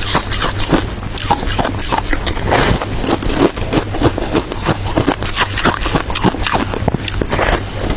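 Matcha-flavoured shaved ice crunching as it is chewed close to the microphone: a dense, continuous run of sharp crackles and crunches.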